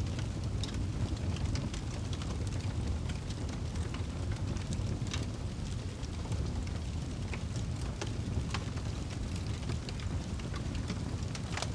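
Wood fire in a fireplace crackling: a steady low rumble of the flames with irregular sharp pops and crackles from the burning logs.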